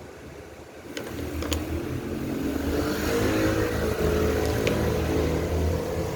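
A motor starts about a second in and runs up, its hum rising in pitch and growing louder over the next two seconds, then running steadily.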